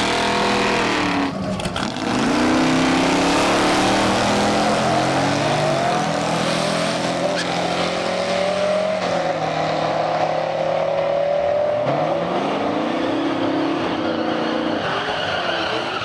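A car engine running loudly, its pitch dipping and then climbing back up about two seconds in and again around twelve seconds.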